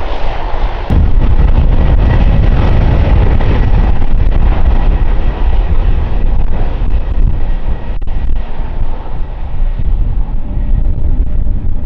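Jet airliner's engines rumbling loudly as it passes and draws away. The rumble steps up about a second in, and its higher part fades toward the end.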